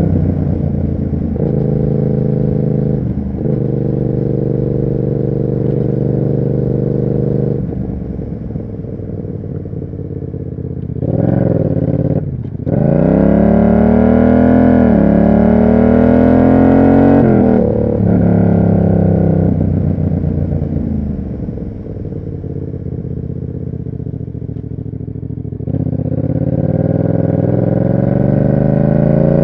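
Yamaha MT-07's parallel-twin engine through an SC Project aftermarket exhaust while riding. It holds a steady note at first and eases off about a quarter of the way in. Around the middle there is a quick break, then the pitch rises steadily as the bike accelerates hard through the gear. It falls away on a closed throttle and picks up again near the end.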